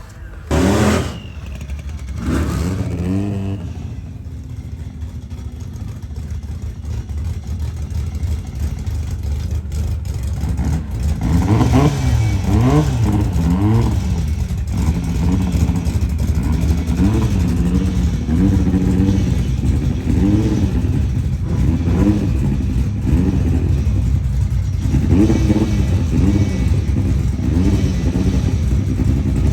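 Car engine with two short loud bursts in the first few seconds, then from about ten seconds in revving up and down over and over, its pitch rising and falling in repeated sweeps.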